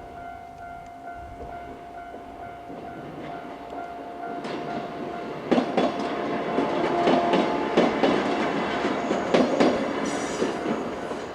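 Japanese level-crossing alarm ringing steadily while a two-car JR 103 series electric train comes through. From about halfway, the train's wheels clack repeatedly over the rail joints, over a rising rumble.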